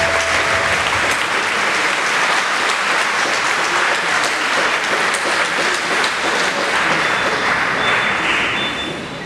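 Congregation applauding, a dense steady clapping as the choir's last held note dies away in the first second; the applause thins slightly near the end.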